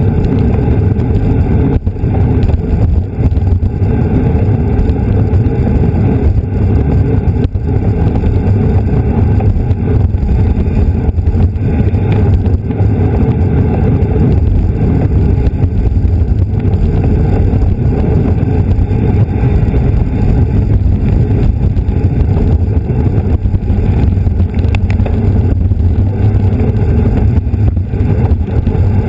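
Steady, loud wind rumble on a bicycle-mounted camera's microphone while riding at speed.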